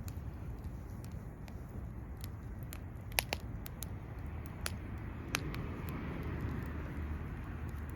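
Wood fire crackling, with irregular sharp pops and snaps over a steady low rumble of the burning fire; the loudest pops come about three seconds in.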